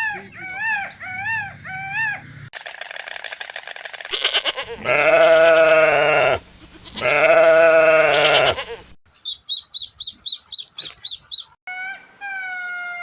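A run of different animal calls, one after another. First comes a repeated call that rises and falls, then a rapid buzzing call, then two long calls in the middle, then fast high chirping, and finally a falling tone near the end.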